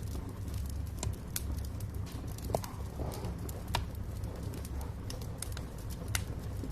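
Wood fire burning in a fireplace: irregular sharp crackles and pops of burning logs over a steady low rumble of the flames, with a few louder pops.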